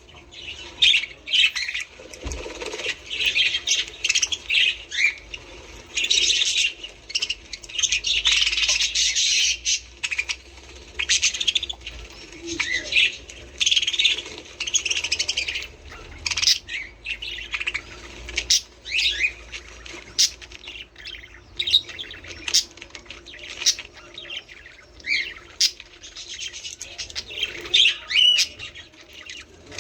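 Budgerigars chattering: dense, high warbling and chirping in bursts with short gaps, mixed with many sharp, short calls.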